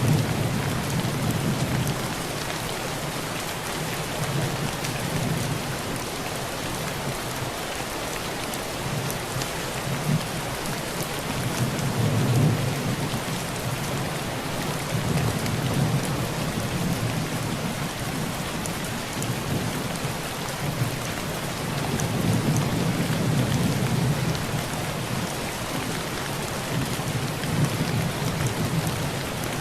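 Heavy rain pouring steadily on a thin tin roof, with low rolls of thunder swelling and fading several times.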